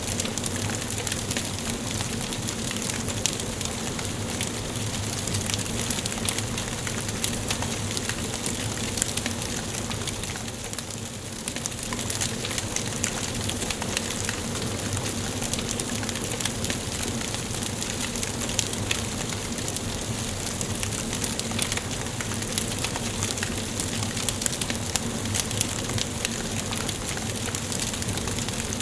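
Wood fire burning in a fireplace: a steady hiss with frequent small pops and snaps of burning logs, briefly softer about eleven seconds in.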